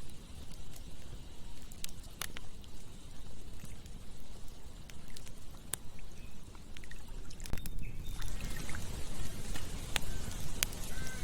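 Campfire crackling: scattered sharp pops and snaps of burning wood over a steady low rushing background. The background grows louder and brighter about eight seconds in.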